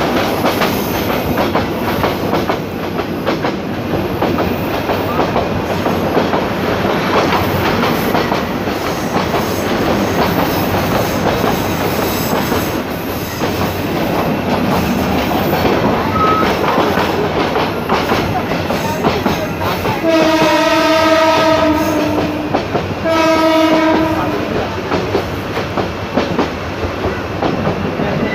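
Passenger train running, heard from a coach window: steady rumble and clatter of the wheels on the track. About two-thirds of the way in, the train horn sounds twice, a blast of about two seconds and then a shorter one.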